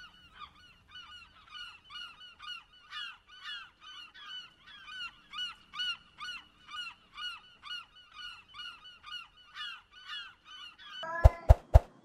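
A large gull calling over and over: a rapid series of short, falling, honking notes at about three a second. Near the end, three sharp loud clicks cut in.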